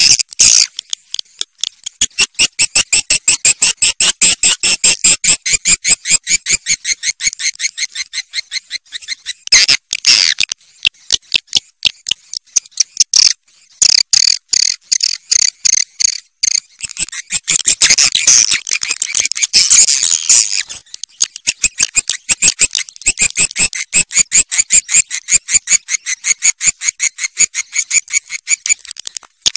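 Swiftlet calls: rapid, high, clicking chatter, about five pulses a second. It runs in long stretches broken by brief pauses. This is the kind of recording played to lure swiftlets into a nesting house.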